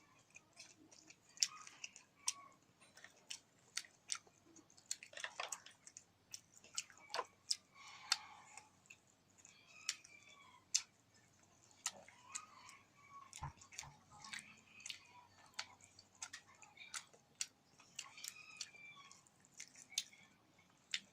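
A person chewing and eating close to the microphone: wet mouth sounds with many small sharp clicks scattered irregularly throughout.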